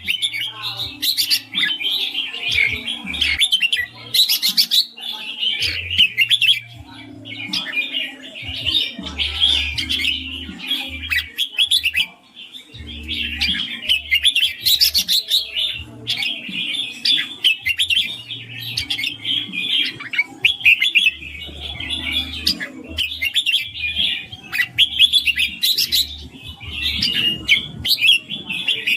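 Red-whiskered bulbul singing: a continuous run of bright, rapid chirping phrases with only short pauses between them.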